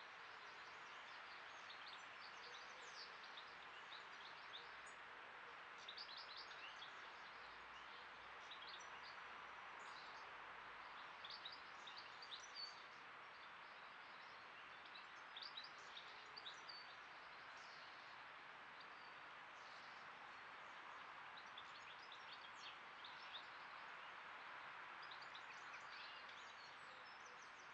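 Faint birdsong: scattered short, high chirps and twitters from small birds, over the steady hiss of a trail camera's microphone.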